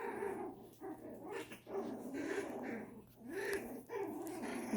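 Puppies growling and yipping at each other while play-fighting, in a run of short calls that rise and fall in pitch.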